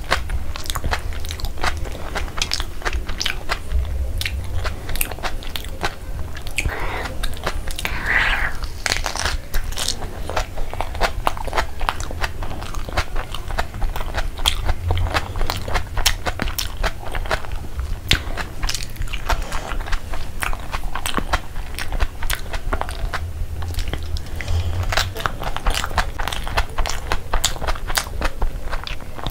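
Close-up chewing of a mouthful of breaded chicken burger: a fast, unbroken run of wet mouth clicks and crunches.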